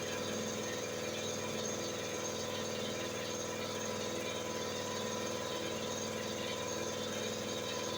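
A steady mechanical drone from a running motor, holding several steady tones over a fast, fine pulsing low down.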